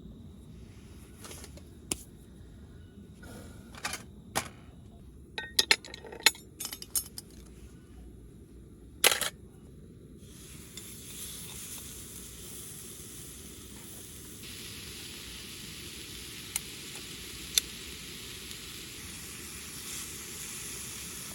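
Scattered clicks and knocks of cookware and utensils being handled, then, about ten seconds in, food starts sizzling in a hot pan: a steady frying hiss that grows stronger a few seconds later, with a couple of sharp clicks near the end.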